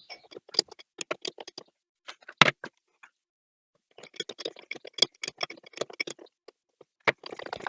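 Metal-cutting tap being worked into a drilled hole with the tap held in a lathe chuck, giving clusters of irregular small clicks and ticks, with one sharp, louder click about two and a half seconds in.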